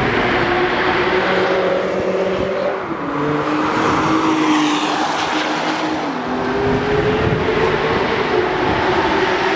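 Nissan GT-R's twin-turbo V6 engine and exhaust running: a steady engine note that drops in pitch about three seconds in and rises again after about six seconds.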